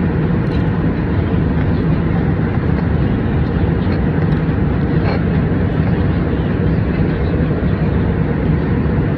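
Steady airliner cabin noise in flight: the even, low drone of the engines and airflow heard from inside the cabin, with a few faint small ticks.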